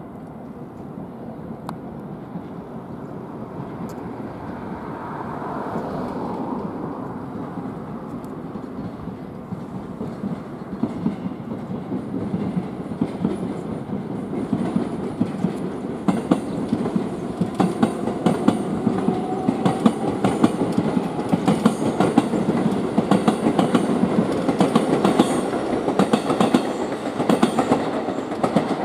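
JR West 103-series electric train rolling slowly through depot pointwork, its wheels clattering over the switches and rail joints, growing steadily louder as it approaches.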